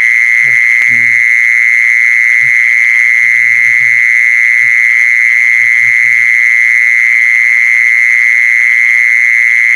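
A continuous, steady high-pitched trilling tone, the loudest thing throughout: a calling sound played to lure the female khmol. Short low croaks come and go every second or so beneath it.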